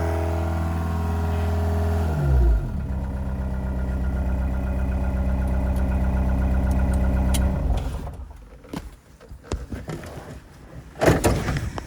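Overheating car engine idling steadily; its pitch drops about two seconds in, then the engine stops about eight seconds in. A few light knocks and a thump follow near the end.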